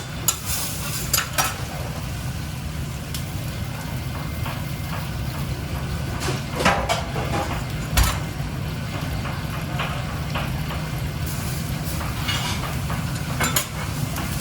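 Kitchen work: clinks and clatters of utensils and pans over a steady low hum, with sharp knocks about a second in, a couple in the middle and one near the end.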